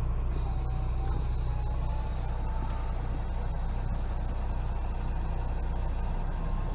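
Semi truck's diesel engine running at a steady low idle while the tractor-trailer creeps backward. The low hum shifts slightly about six seconds in.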